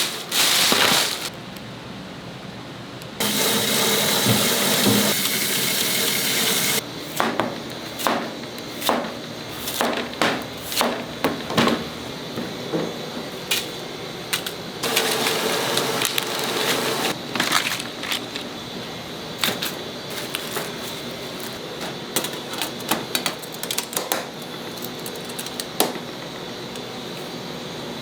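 Kitchen food-prep clatter: irregular clicks and knocks of hard objects such as shells and utensils. A steady rushing noise runs for a few seconds near the start and again briefly about halfway through.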